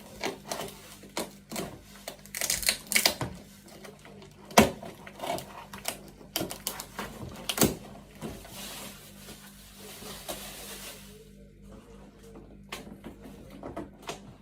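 Objects being unpacked and handled: a run of sharp clicks, taps and knocks, with a stretch of rustling from about eight to eleven seconds in.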